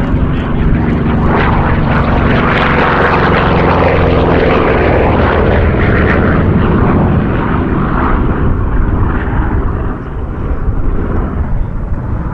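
Aircraft flying past overhead: a loud engine sound that swells to a peak a few seconds in, with steady low engine tones under a rushing noise, then eases off near the end.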